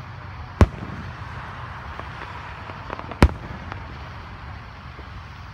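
Aerial firework shells bursting: two sharp, loud bangs about two and a half seconds apart, with a few fainter pops between and after, over steady background noise.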